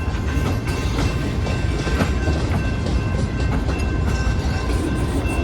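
Freight train boxcars rolling slowly past, a steady low rumble with wheels clicking over the rails and a thin steady high squeal running through it.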